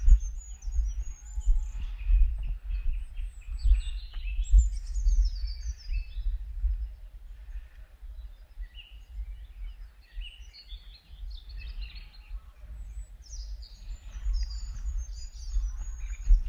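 Small songbirds chirping and singing in several short phrases, over a strong uneven low rumble on the microphone.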